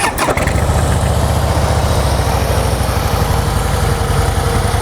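The 2013 Harley-Davidson Softail Deluxe's air-cooled V-twin catches at the very start, then idles steadily through its stock factory exhaust.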